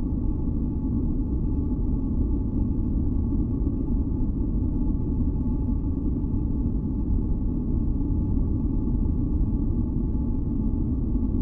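Continuous deep, unchanging masking noise, weighted heavily toward the low end like brown noise, with faint steady tones humming above it.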